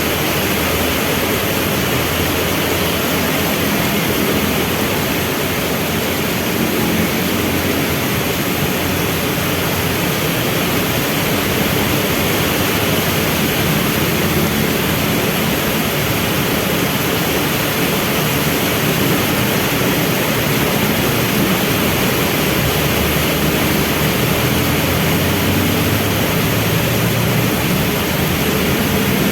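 Steady heavy rain, with the low rumble of vehicle engines idling in traffic at a red light beneath it; the engine rumble grows a little stronger near the end.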